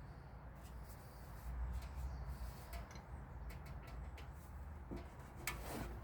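Faint scattered clicks and light knocks from hand work on a part, over a low steady hum.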